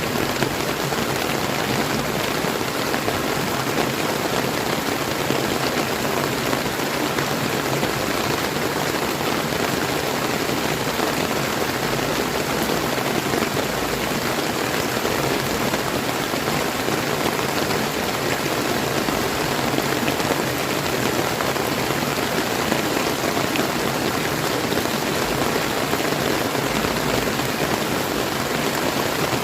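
Steady rain falling, an even dense hiss of drops, mixed with the rush of a clear flowing stream.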